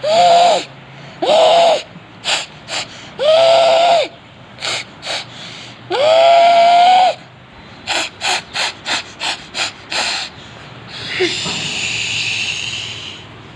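A child imitating a steam train with the voice: four whistle-like toots, the last the longest, mixed with short breathy chuffs that come quickly, about four a second, some eight seconds in, then a long steam hiss near the end.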